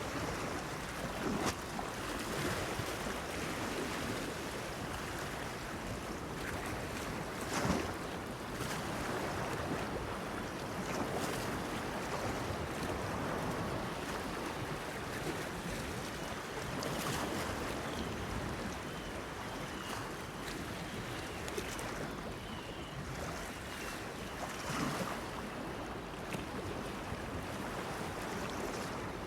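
Sea waves lapping and washing against a stone breakwater with steady wind, with a few louder splashes, the loudest about eight seconds in.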